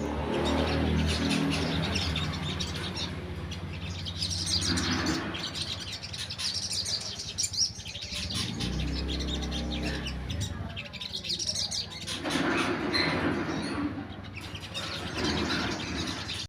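A young caged songbird chirping and twittering in repeated runs, with a low steady hum in the background that comes and goes twice.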